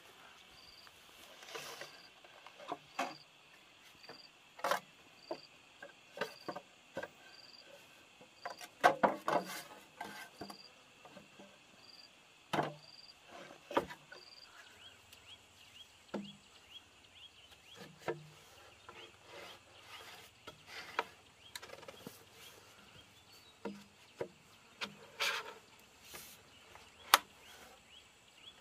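Scattered knocks and taps, loudest in a cluster about nine seconds in, over insects chirping: one high chirp repeats a little under twice a second through the first half, and a steady high trill runs underneath.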